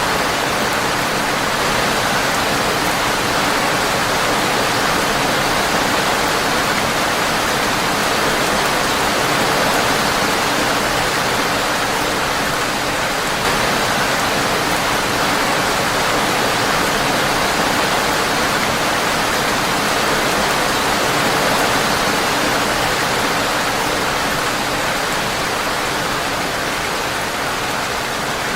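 Steady rain on a windowpane, an even hiss that holds at a constant level throughout.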